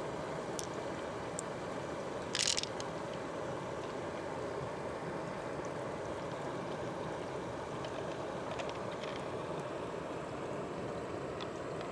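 Steady rush of flowing water, with one short, sharper noise about two and a half seconds in.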